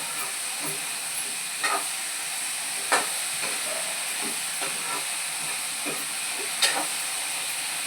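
Green beans and potatoes sizzling in a pan with a steady hiss. A spoon or spatula knocks against the pan a few times, loudest about three seconds in and again near the end.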